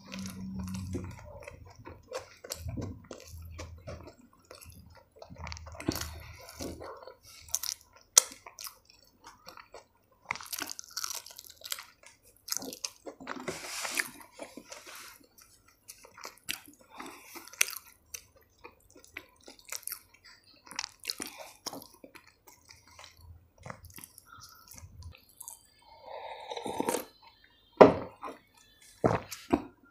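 Close-miked chewing of homemade paratha: wet mouth clicks and soft crunches, with two sharp clicks near the end.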